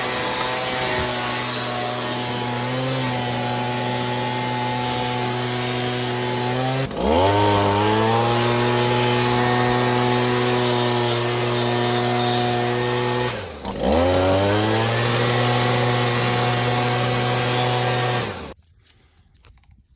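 Leaf blower running at speed, blowing out debris; its pitch sags and climbs back up twice, then it shuts off near the end.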